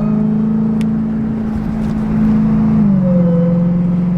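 Exhaust of a Dodge Durango SRT Hellcat's supercharged 6.2-litre V8 with the mid-mufflers deleted, pulling under load. The engine note holds steady, then drops a little about three seconds in.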